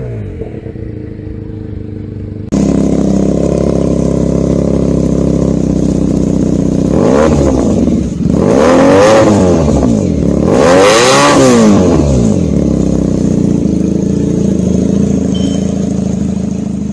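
Benelli TNT300 parallel-twin motorcycle idling through a loud aftermarket exhaust, then blipped three times in quick succession, the pitch rising and falling with each rev. A quieter idle before a sudden jump to the louder recording about two and a half seconds in.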